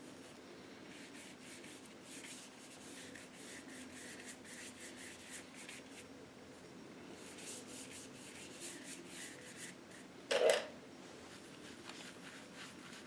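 Paintbrush rubbing acrylic paint onto canvas in a run of short, faint strokes, with one brief louder knock about ten seconds in.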